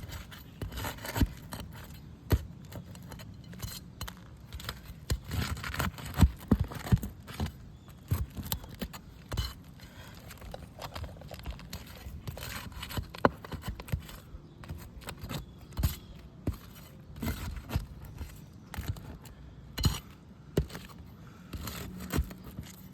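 Irregular scrapes, crackles and sharp knocks of hands and tools working on asphalt roof shingles, with a loose, uneven rhythm.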